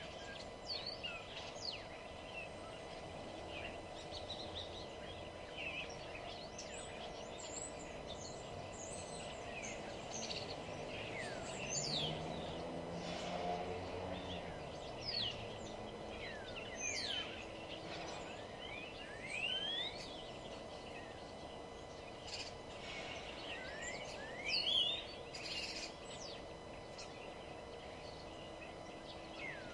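Several wild birds singing and calling, a scatter of quick, sharp chirps that sweep up and down in pitch, over a steady low background hum.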